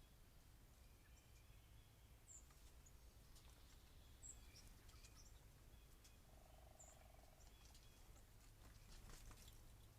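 Near silence with a low hum, broken by a few faint, short, high bird chirps and a brief low buzz about six seconds in.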